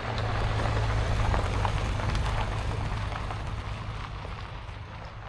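A motor vehicle driving: a steady low engine hum with road and tyre noise that grows louder early on and fades over the last couple of seconds.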